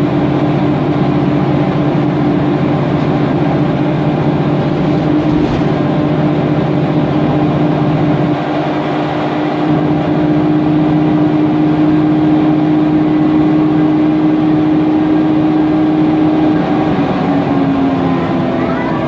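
Mercedes-Benz Conecto NGT city bus under way, its CNG engine, Voith DIWA automatic gearbox and cooling fan running with a loud, steady whine. The whine falls in pitch near the end.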